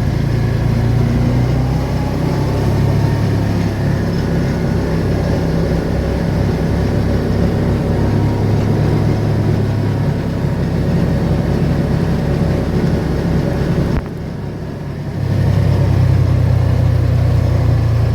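Car engine and road noise heard from inside the moving vehicle, a steady low hum, dipping briefly about fourteen seconds in before picking up again.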